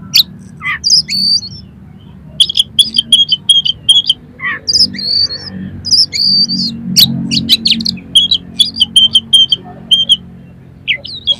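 Oriental magpie-robin (kacer) singing a fast, harsh chattering song of short high notes, including rapid runs of one repeated note, over a low background hum.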